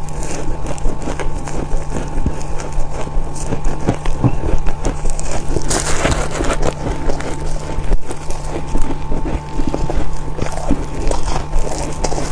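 Freezer frost being bitten and chewed close to the microphone: dense crisp crunching and crackling, with a louder crunch about halfway through, over a steady low hum.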